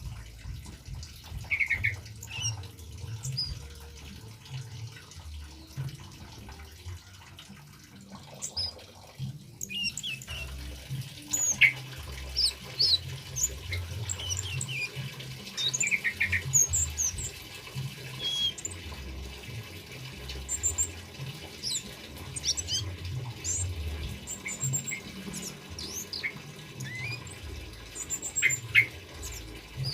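Male kemade birds calling in the wild: many short, sharp chirps and quick whistled strokes, more of them after the first third, over a continuous sound of running, gurgling water.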